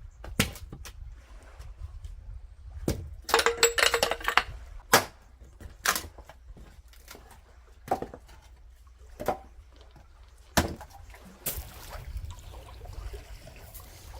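Scattered knocks and clinks of objects being handled, with a quick run of clinks and a faint ringing note a few seconds in. An even hiss of noise comes in near the end.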